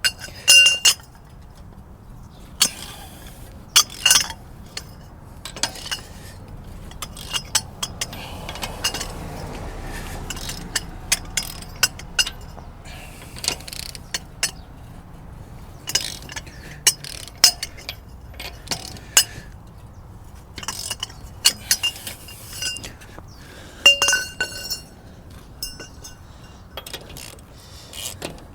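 Metal hand tools and parts clinking and clicking in irregular sharp strokes, some with a short metallic ring, during work on a car.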